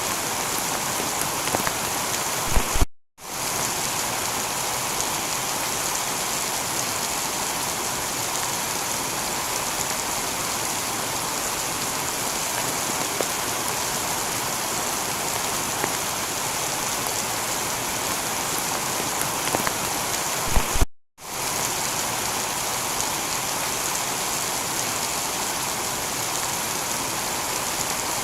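Heavy rain falling steadily on a tiled roof, an even hiss of many drops. It cuts out for a split second twice, about 3 and 21 seconds in, each time just after a few sharp clicks.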